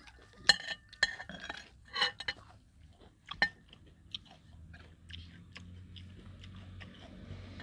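Close-up chewing and crunching of a crisp meal of fried rat with raw lettuce and vegetables. Sharp crunchy bites come thickest in the first few seconds and then thin out.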